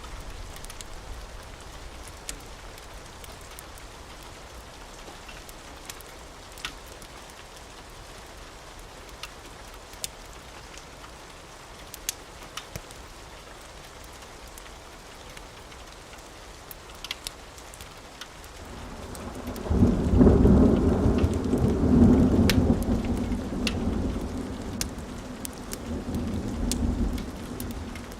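Steady rain with a few scattered sharp clicks, then a long roll of thunder that swells about two-thirds of the way through, is loudest for a few seconds and rumbles away near the end.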